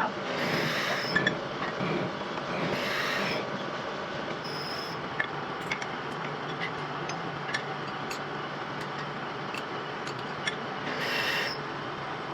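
Metal lathe running with a steady hum while the tool cuts metal, with several short high scraping squeals.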